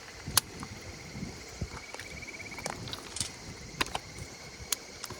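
Wood campfire crackling, with sharp pops about once a second, while an insect keeps up a steady high pulsing trill, clearest in the second half.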